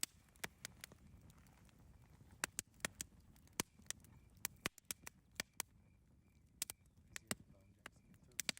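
Campfire crackling: irregular sharp pops and snaps of burning wood over a faint low rumble of the flames.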